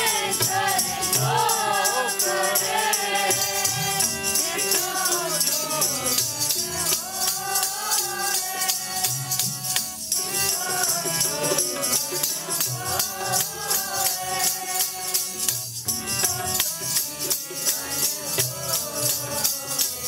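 Sikh kirtan: voices singing a devotional hymn over a steady, fast percussion beat of about three strokes a second.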